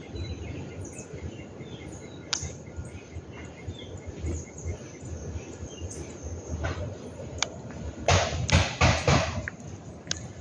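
Outdoor morning ambience: faint birds chirping over a steady low rumble, with a few scattered clicks. A short run of rustling, crunching noises comes a couple of seconds before the end.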